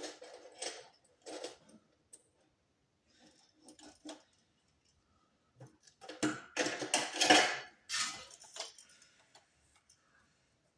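Clicks, light rattles and scraping of small hard plastic and metal parts being handled, as on an Xbox 360 being taken apart for repair. It is sparse at first and turns to a busy clatter between about six and eight seconds in.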